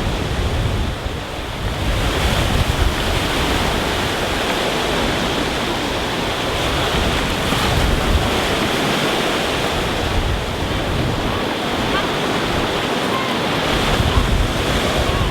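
Rough sea breaking on a stony beach, waves surging in and washing back over the stones in slow swells, with wind rumbling on the microphone.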